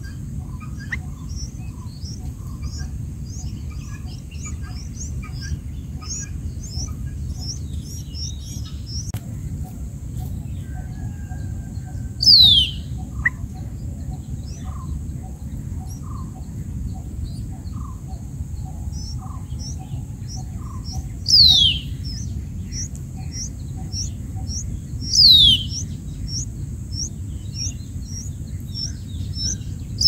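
Birds calling: a run of short high chirps, about three a second, and three loud calls that slide downward in pitch, about twelve, twenty-one and twenty-five seconds in, over a steady low background rumble.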